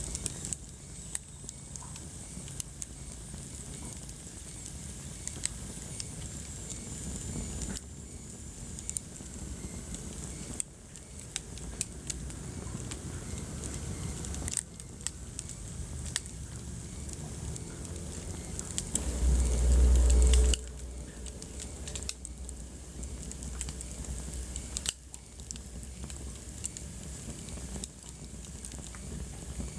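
Wood fire crackling in a fireplace: a steady low rustle of burning with frequent sharp pops and snaps. About two-thirds of the way through, a loud low rumble lasts a second or so.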